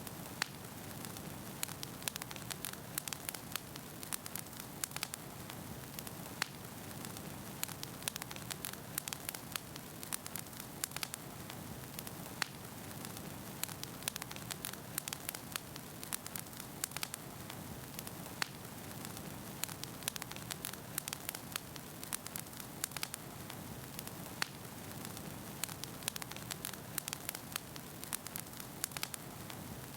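Wood fire burning in a fireplace: a steady low rumble of flame with frequent irregular crackles and pops of firewood.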